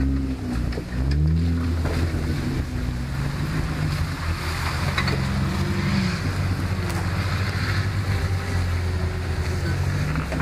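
Jeep's engine revving up and down as it crawls through muddy ruts, its pitch rising and falling several times.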